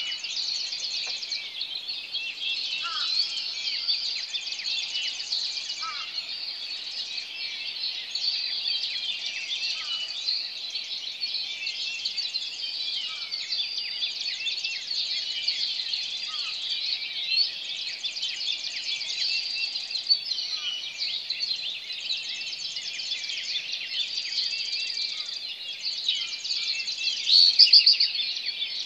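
Morning chorus of many birds calling at once: a dense, continuous tangle of high chirps and trills, with a lower, falling call repeating every three to four seconds.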